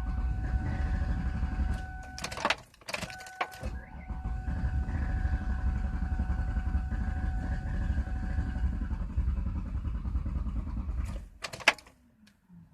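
Old Ford car engine cranking on the starter without catching, in two tries: one of about two and a half seconds, then after clicks of the key a longer one of about eight seconds, with a steady tone over it. It ends with a sharp click. The uploader links the no-start to the fuel pump.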